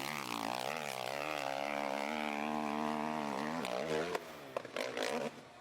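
Monster truck engine running hard, its pitch wavering up and down with the throttle, then dropping away about four seconds in, followed by a few sharp knocks.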